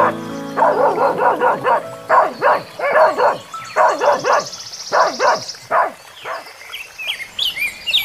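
A dog barking repeatedly in quick runs, about two or three barks a second, dying away about six and a half seconds in.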